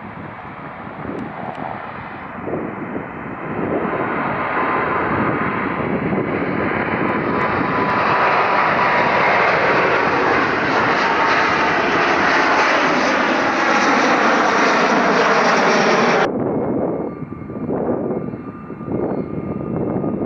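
Twin-engine Airbus jet airliner at takeoff power passing by, growing louder over several seconds, with a whine that falls in pitch as it goes past. The sound cuts off abruptly about 16 seconds in, leaving fainter wind noise.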